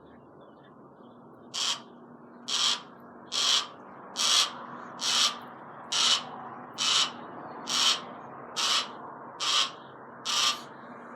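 Barn owl hissing in a steady series, eleven short breathy hisses about one a second.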